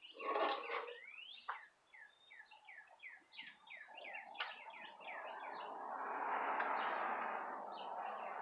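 A songbird singing a quick run of short down-slurred notes, several a second. A broad rushing noise then swells through the second half.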